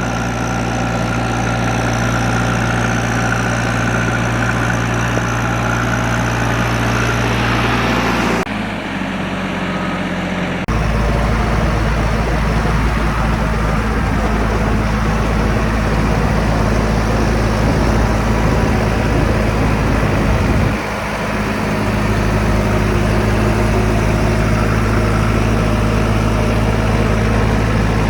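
Backhoe loader's diesel engine running steadily. Its sound shifts abruptly about eight and a half seconds in and again near eleven seconds, and dips briefly about twenty-one seconds in.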